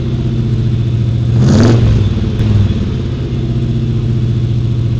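A car engine running with a deep, steady rumble, with a brief swell about a second and a half in.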